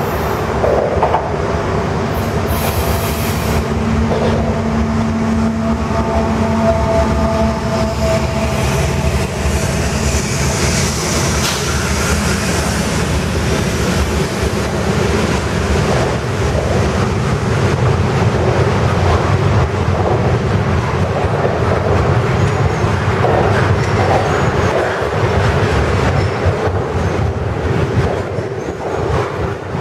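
Diesel freight train passing, led by a BNSF GE ET44C4 locomotive. The locomotives' engines sound in the first several seconds, then give way to a steady rumble and clatter of double-stack container cars rolling by on the rails.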